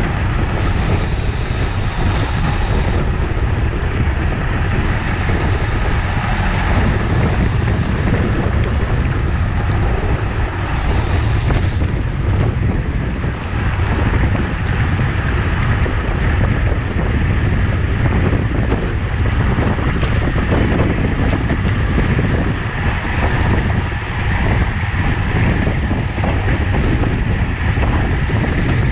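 Wind buffeting the microphone of a camera on a racing bicycle at speed: a loud, steady rumble.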